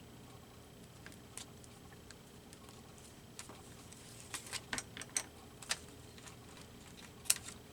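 Scattered small clicks and light handling noises from paper collage pieces being worked by hand, a cluster of them between about four and six seconds in and one sharper click near the end.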